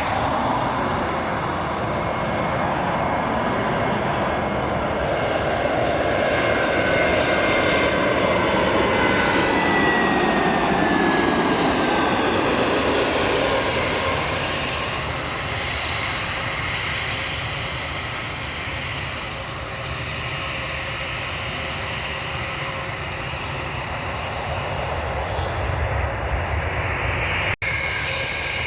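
Jet airliner's engines passing close by, a steady roar that swells in the middle while a high whine falls in pitch as the aircraft goes past, then settles to a lower rumble.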